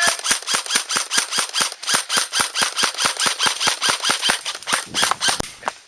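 Airsoft rifle firing a long, steady string of shots close by, about six a second, for most of six seconds before stopping.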